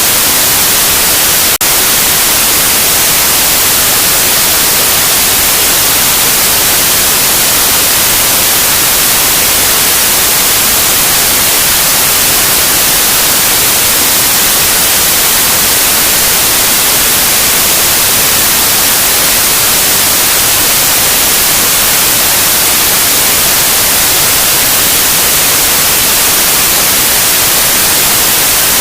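Loud, steady white noise: an even hiss across the whole range, brightest in the treble, with a momentary break like a tiny click about a second and a half in.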